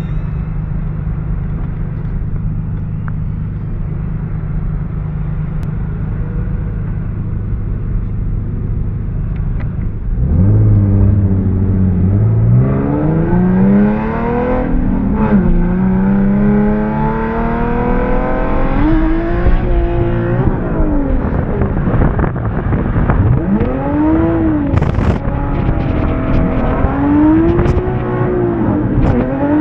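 Drift car's engine running at a steady pitch for about ten seconds, then revving hard. Its pitch climbs and drops again and again as the car is driven through the corners.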